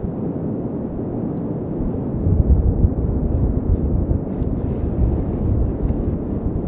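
Strong blizzard wind blowing and gusting, a loud steady rush with heavy low buffeting on the microphone that grows stronger about two seconds in.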